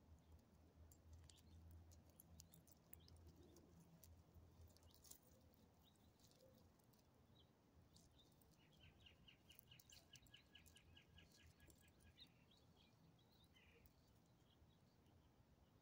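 Near silence with scattered faint clicks. About nine seconds in, a faint bird calls with a quick even series of about a dozen short notes, around five a second, and gives one more short chirp a couple of seconds later.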